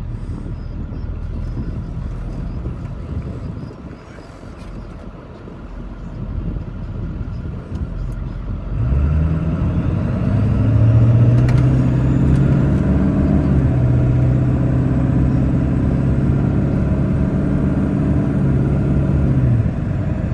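Truck engine running, its owner's claim being that it still sounds like a new truck. A low rumble for the first several seconds, then about nine seconds in the engine note climbs and holds steady, easing off shortly before the end.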